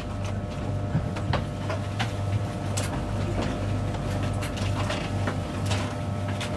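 Inside a moving InterCity 225 Mark 4 passenger coach: a steady low rumble of the wheels on the track, with irregular sharp clicks and knocks and a faint steady hum.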